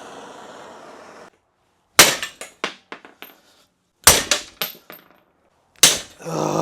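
Hammer blows on a rusted U-joint in the front axle yoke, driving a bearing cap out: three bursts of strikes, each a hard hit followed by a few quicker, lighter ones. A steady hiss cuts off about a second in.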